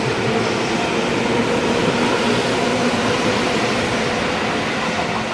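Tobu Tojo Line electric commuter train running along the platform: a steady, loud rumbling noise with a few faint steady hums, easing slightly near the end.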